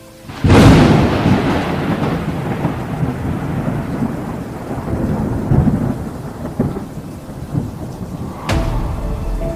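Thunder: a sudden loud crack about half a second in, rolling into a long rumble, with a second sharp crack near the end.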